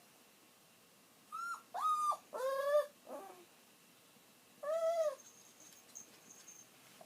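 Elderly chihuahua-mix dog whining and crying while it waits alone for its owner: a run of short, high whines between about one and a half and three seconds in, then one more about five seconds in.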